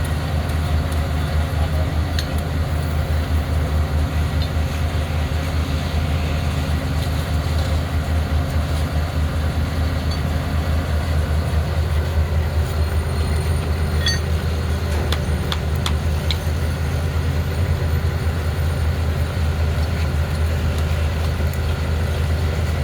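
Steady low drone of a large engine or heavy machine running without change, with a few faint clicks or taps partway through.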